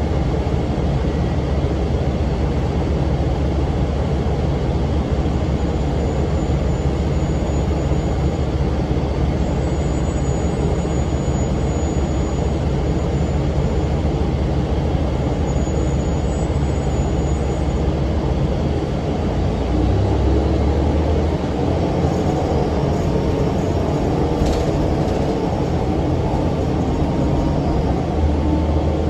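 A Cummins ISM diesel engine and cooling fan of a 2006 NABI 40-ft low-floor transit bus running under way, heard from inside the cabin as a steady, loud rumble with road noise. The engine note shifts about two-thirds of the way through as the bus changes speed.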